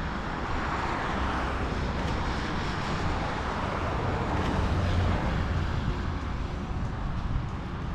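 Road traffic going by: a steady rush of vehicle noise that swells to its loudest about five seconds in and then eases off.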